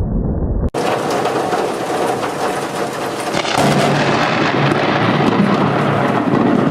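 A deep rumble of thunder that cuts off abruptly under a second in, followed by a loud, steady downpour of heavy rain during a thunderstorm.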